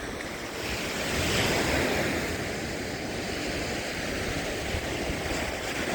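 Lake Ontario waves washing on the shore, swelling about a second in, with wind rumbling on the microphone.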